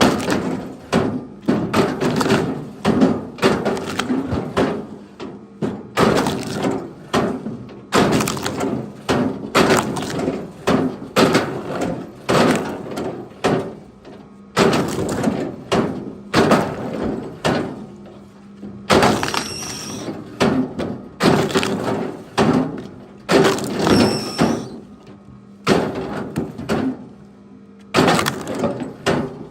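Pieces of firewood knocking and clattering against each other, one or two sharp wooden impacts a second with short pauses in between.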